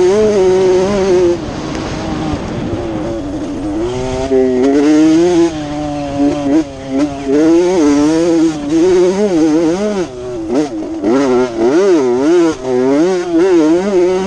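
Honda CR80 two-stroke motocross bike engine being ridden, its pitch rising and falling over and over as the throttle is opened and closed, with quick, sharp rev swings near the end.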